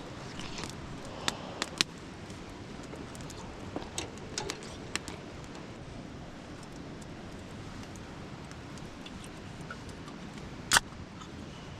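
Scattered light clicks and taps of things being handled, over a steady background hiss, with one loud sharp click near the end.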